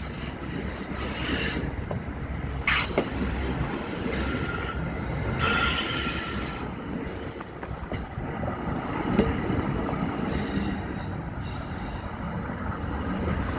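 Exo commuter train rolling past on the rails, a steady rumble of wheels and cars with a few brief high-pitched squeals and clicks along the way.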